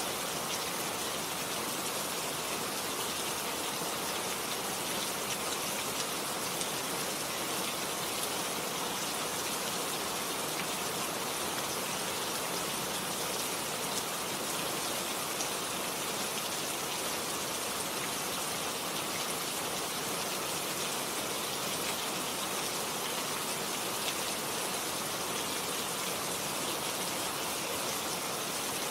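Steady rain falling, a dense even hiss of drops with faint scattered ticks.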